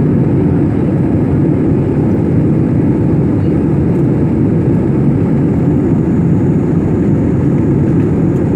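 Steady low rumble of a jet airliner's engines and airflow heard from inside the passenger cabin during the climb after takeoff.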